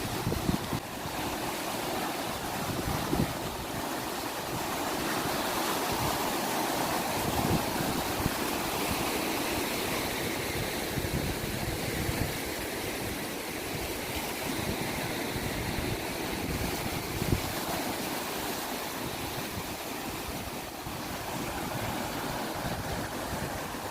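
Sea waves washing and breaking in a steady surf that swells and eases, with wind buffeting the microphone.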